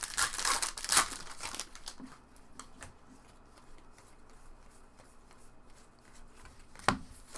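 Trading card pack wrappers crinkling and cards being handled, busiest in the first two seconds, then softer card handling with small ticks and one sharp click near the end.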